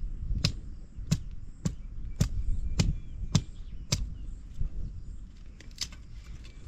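Wood being chopped: about seven sharp, evenly spaced blade strikes, a little under two a second, then a pause and two fainter knocks near the end.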